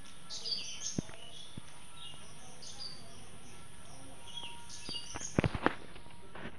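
Small birds chirping, short high calls repeated again and again, over a steady background hiss. A few sharp clicks or taps come about a second in and in a cluster near the end.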